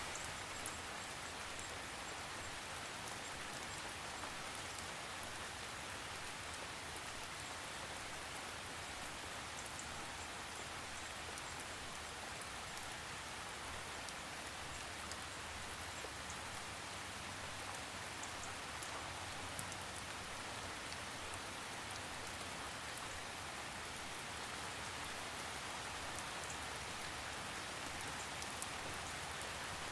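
Steady rain falling on a surface, with scattered individual drops ticking and no thunder.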